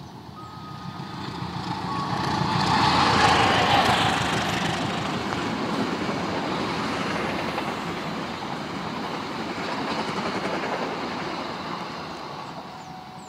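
Locomotive-hauled passenger train passing close by at speed, its wheels running over the rails. The rumble builds over the first three seconds as the locomotive comes past, holds steady as the coaches go by, and eases off near the end.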